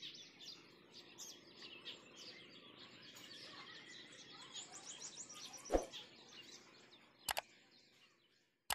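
Many small birds chirping and calling, faint, thinning out near the end, with one sudden sharp knock about six seconds in and two short clicks near the end.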